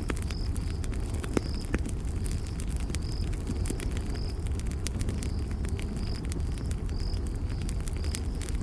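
Campfire crackling, with frequent sharp pops and snaps over a low steady rumble of burning wood. A cricket chirps in short high notes about once or twice a second.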